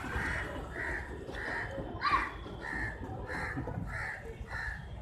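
A bird calling over and over, short calls about two a second, with one sharper, louder sound about two seconds in, over a low background rumble.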